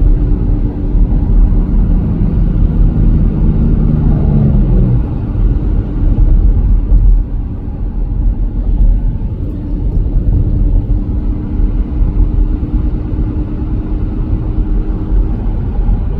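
Car driving, heard from inside the cabin: a steady low rumble of engine and road noise. A humming tone slides down and fades about four to five seconds in.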